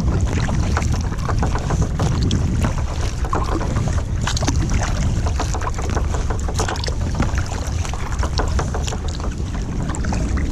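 Water splashing and lapping against a sea kayak at sea, with many small irregular splashes, over a heavy low rumble of wind buffeting the microphone.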